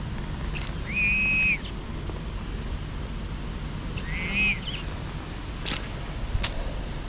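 XP Deus metal detector giving two short, high target tones about three seconds apart, each rising briefly and then holding: the detector signalling metal in the ground. Wind noise runs underneath, with two sharp clicks near the end.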